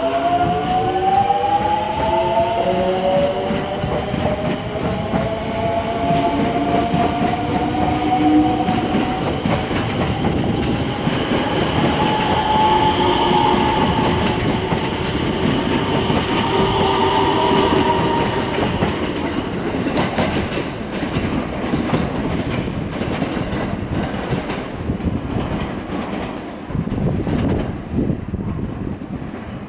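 Electric train pulling through the station: the motor whine rises in pitch over the first couple of seconds, then holds steady under the rumble of the cars. From about twenty seconds in come quick, repeated wheel clacks over the rail joints.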